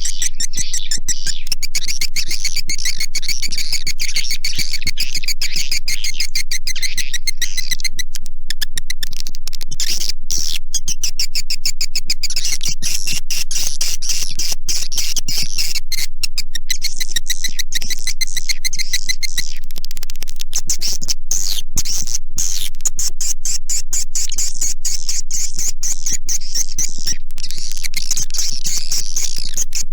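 Recorded swiftlet calls: a dense, continuous stream of rapid high chirping and clicking twitter that thins briefly a couple of times, over a steady low hum. It is a swiftlet lure sound, played to draw swiftlets into a nesting house.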